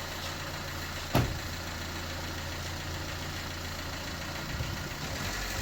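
Steady low hum of an idling engine, with one sharp knock about a second in.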